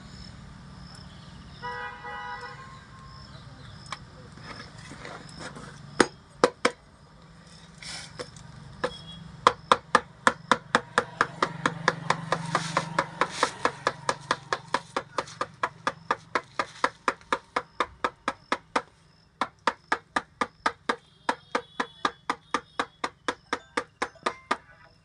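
Hammer blows in tyre repair work: a few single knocks, then a long run of sharp, even strikes at about three a second, with a short pause partway through.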